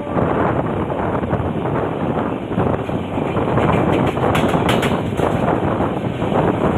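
Passenger train running, a steady, loud rumble and rush of noise, with a few brief sharp clicks about two-thirds of the way through.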